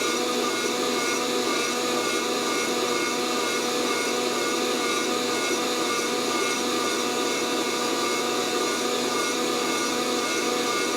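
Fresh Roast SR 800 air coffee roaster running steadily, its fan blowing hot air through the tumbling beans with a constant rushing noise and a steady motor hum. No cracking pops: the beans have not yet reached first crack.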